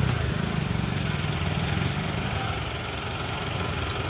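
Motorcycle engine idling steadily, a little louder for the first couple of seconds.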